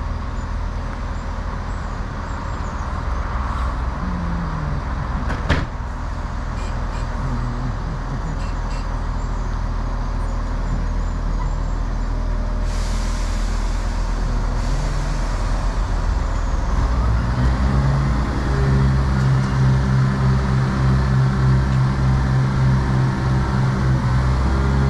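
Two-car diesel multiple unit running at the station: a steady diesel engine, a sharp click, and a short hiss of air about halfway through. About two-thirds of the way in, the engine note grows louder and throbs as it is throttled up.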